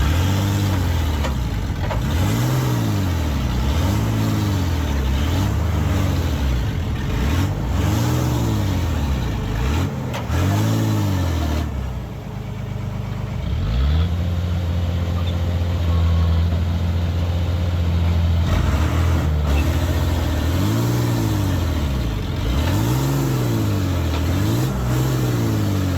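Diesel engine of a Komatsu D20P bulldozer, its revs rising and falling over and over, about every one to two seconds, as the machine works. A little before the middle it holds a steady high rev for several seconds, then the rise and fall starts again.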